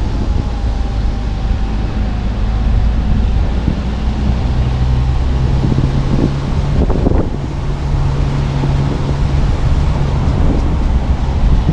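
Car driving along a road: steady engine hum and tyre rumble with some wind buffeting the microphone. The engine note steps up about four seconds in.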